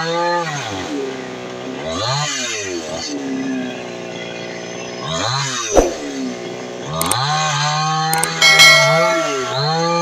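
Two-stroke chainsaw engine running at high revs, its pitch dropping and climbing back several times as the throttle is let off and opened again. A sharp knock a little before the middle and a few clicks near the end.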